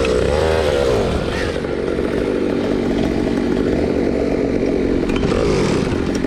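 Motor scooter engine running, revved up and down near the start and again near the end.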